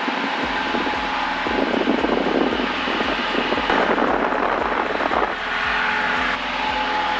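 Single-engine Cessna 172 Skyhawk's piston engine and propeller running at takeoff power during the climb-out just after lift-off, heard in the cockpit. A louder rushing noise swells from about a second and a half in and eases off around five seconds in.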